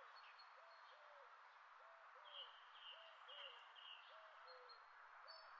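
Faint bird calls: short hooting notes in pairs, repeating a little more than once a second, with a brief run of four higher chirps about halfway through.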